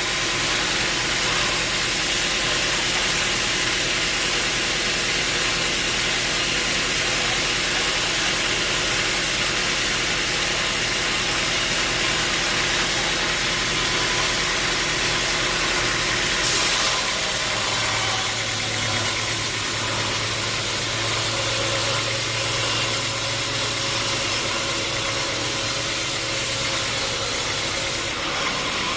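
Sawmill machinery running steadily. About halfway through, a brighter high hiss and a low hum join it for around ten seconds, then drop away near the end.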